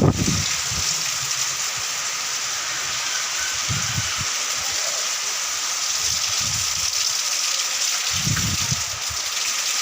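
Heavy rain pouring steadily, a dense even hiss, with a few low gusts of wind buffeting the microphone.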